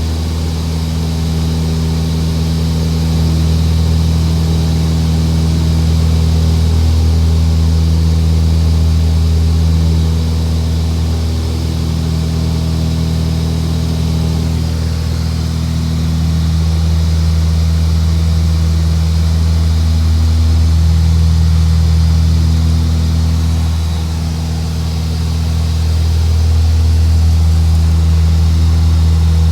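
Steady low drone of an aircraft engine in flight, swelling and easing slowly every several seconds.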